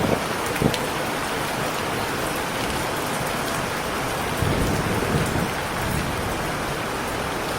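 Heavy rain falling steadily, with a low rumble of thunder swelling about halfway through.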